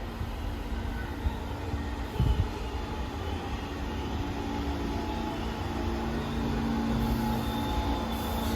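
New York City subway train approaching on the BMT Brighton Line, its rumble growing steadily louder with a steady hum. A brief low thump about two seconds in.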